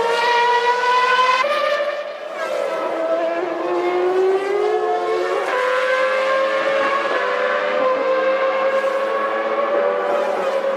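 1998 Formula One cars' V10 engines screaming at high revs. The pitch jumps about a second and a half in, dips and climbs again over the next few seconds, then holds steadier, as on upshifts and downshifts through corners, with more than one engine heard at once.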